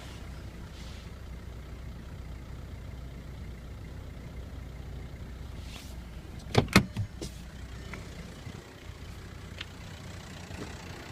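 1.9 L BEW pump-duse TDI diesel in a 2004 VW Golf idling roughly just after a cold start. The rough cold idle comes from a worn camshaft with worn lobes. Two or three sharp knocks about six and a half seconds in stand out above the idle.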